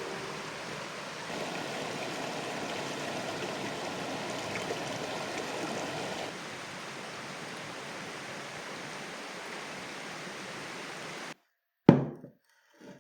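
Steady rushing of a mountain stream, its level shifting twice, then cutting off abruptly near the end. Right after, a single sharp loud knock, then a fainter one.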